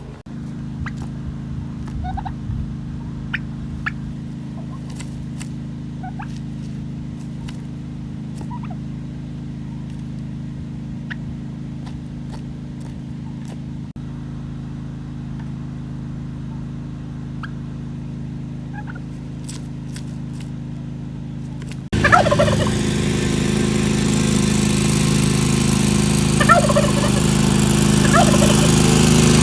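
Meat chickens clucking and calling in short, scattered notes over a steady low hum. About 22 seconds in, everything gets suddenly louder and a hiss joins the hum.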